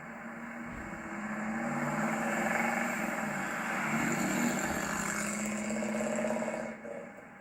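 1965 Ford Fairlane's 289 cubic-inch V8 with custom dual exhaust, accelerating under load on a drive. The engine note climbs and grows louder from about a second in, holds, then drops off abruptly near the end.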